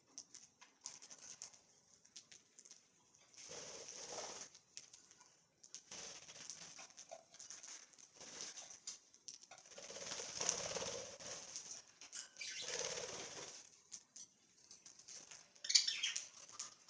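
Pet budgerigars fluttering and scrabbling about with soft chirps and pecking clicks, in several bursts of rustling each a second or two long.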